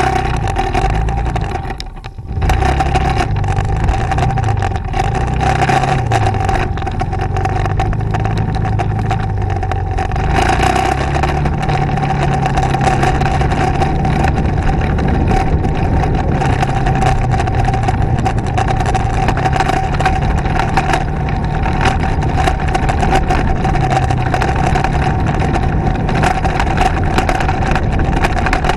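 Motorcycle engine running on the move, its pitch rising and falling with the throttle. The sound dips briefly about two seconds in, then picks up again.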